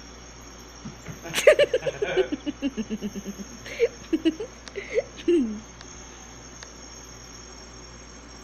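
Voice sounds: a quick run of about a dozen short pulses falling in pitch over two seconds, then four short calls, the last one sliding down. A faint steady high whine runs underneath.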